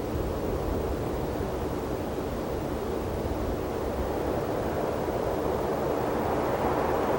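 Wind blowing across open desert, a steady rush that slowly swells toward the end.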